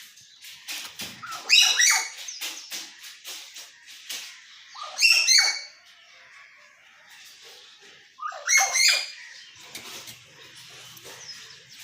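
Hill myna calling: three loud, harsh bursts a few seconds apart, with quieter clicks and chatter in between.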